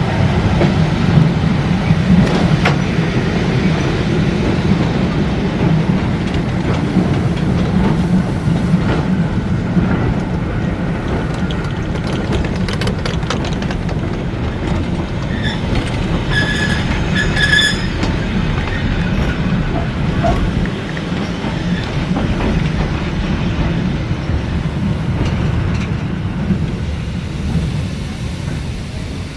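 A train running on the rails: a steady loud rumble with wheel-on-rail clatter. A few short high-pitched squeals come a little past halfway, and the sound grows fainter near the end.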